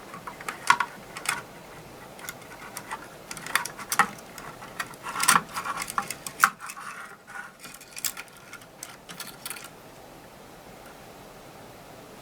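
Irregular sharp clicks, light metallic knocks and rattles as the control circuit board of a Dynaco SCA-80Q amplifier is worked free of its metal chassis. The handling stops about ten seconds in, leaving a faint steady hiss.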